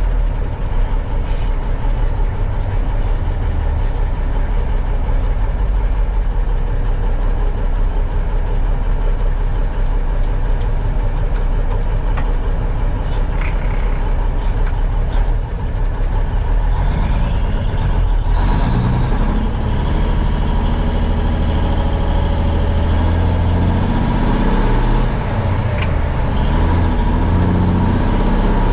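1971 Peterbilt 359 semi truck's diesel engine running steadily on the road. About two-thirds through, its low note grows stronger as the engine pulls harder.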